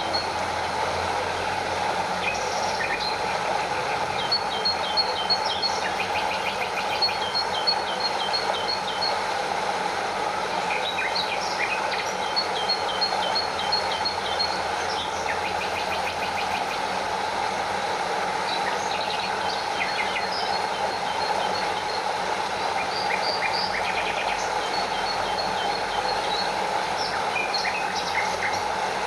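Steady rushing of a stream and a small waterfall, with repeated runs of short, high chirps over the water every few seconds.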